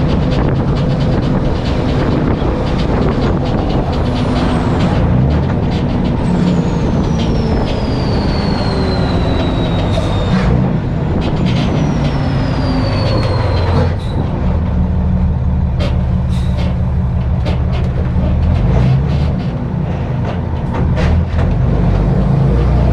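Flatbed straight truck driving, its engine running steadily, with a few sharp clicks and two long falling whistles.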